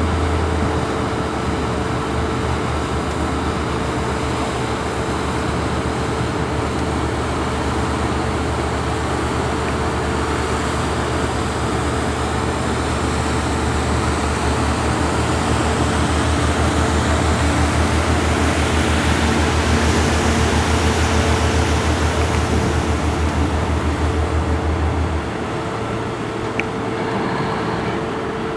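A boat's engine running hard, a steady low drone with noise over it, that drops away sharply near the end, as the throttle is eased.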